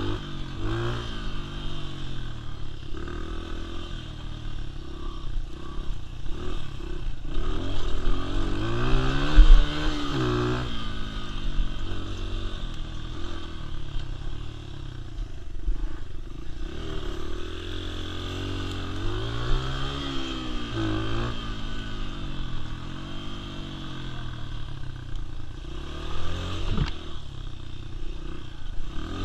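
Dirt bike engine running, its pitch repeatedly rising as it revs up and falling as it eases off.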